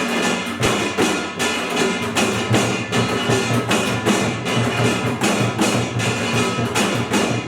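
Korean pungmul percussion ensemble playing an even, driving beat: the small kkwaenggwari gong ringing over janggu hourglass drums and buk barrel drums.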